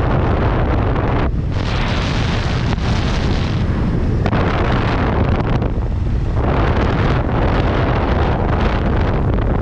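Wind rushing over a helmet-mounted camera's microphone on a moving motorcycle: a loud, steady rumble heaviest in the low end, its upper hiss shifting as the airflow changes.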